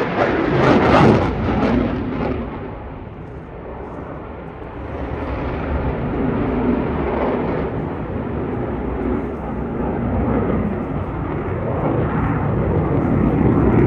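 Eurofighter Typhoon's twin EJ200 turbofan engines as the jet displays overhead: loud jet noise, peaking about a second in, easing off for a few seconds, then swelling again towards the end.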